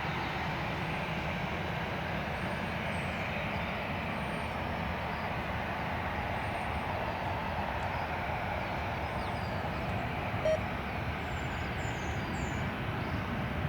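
Steady rushing noise of jet aircraft engines at the airfield, even in level throughout.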